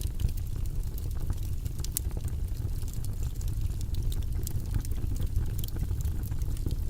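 Fire burning in a fireplace: a steady low rumble of flames with scattered sharp crackles and pops, one louder pop about two seconds in.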